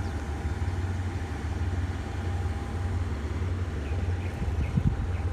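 A diesel locomotive's engine idling steadily, a low rumble with a faint steady hum above it, and a few short knocks near the end.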